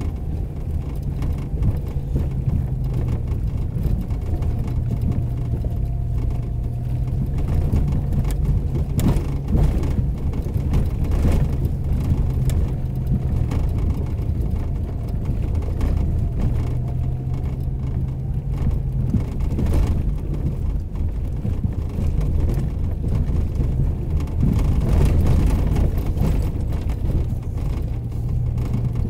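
A 4x4's engine running at low, steady revs with small shifts in pitch as it drives an off-road trail. Occasional knocks and rattles cut through it.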